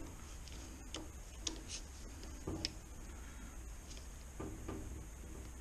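A few light, irregular clicks and taps of hand tools working on a gearbox.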